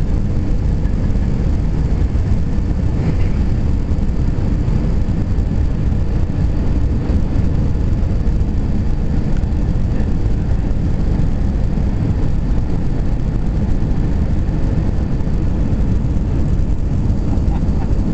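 Airliner on its landing approach: a steady, loud, even rumble of engines and airflow, with a faint steady hum above it.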